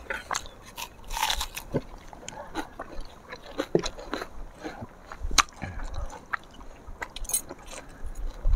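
People biting into and chewing raw vegetables: a string of short, crisp crunches and chewing sounds.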